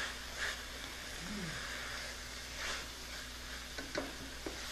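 Sliced peppers and onion in balsamic vinegar sizzling in a stainless steel pan while a spoon stirs them, with a few light clicks of the spoon against the pan near the end.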